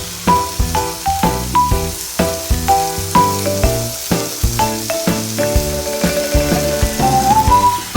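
Meat sizzling on a small iron griddle plate, under background music: a melody of short notes.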